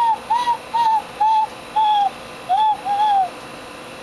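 Handmade pot-shaped bird whistle blown in a run of short hooting notes, about seven of them, each bending up and then falling off in pitch, with the fingers over its holes shifting the note.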